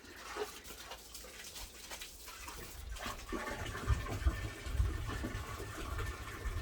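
Water falling and splashing steadily, with a low rumble joining about two and a half seconds in.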